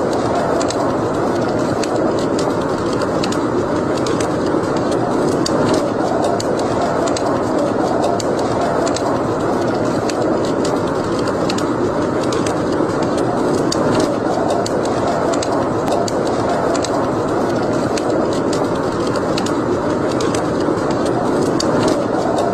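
Wood fire burning in a fireplace: a steady rushing with frequent small, sharp crackles and pops scattered throughout.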